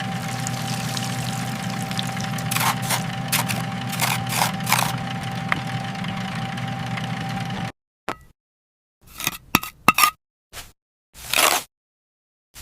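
A steady low hum with a thin, even tone over it and scattered scrapes and clinks, cut off suddenly about eight seconds in; after that come short separate clinks and scrapes with dead silence between them.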